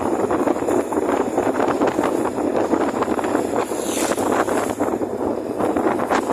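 Strong wind buffeting the microphone, a loud, steady, crackling rush.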